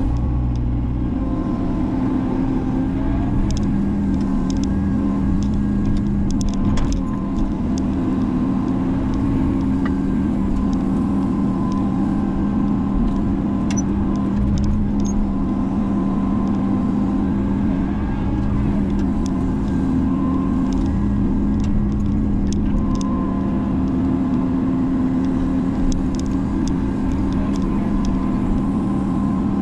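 Menzi Muck spider excavator's diesel engine running steadily at a constant speed, with scattered light clicks and knocks over it.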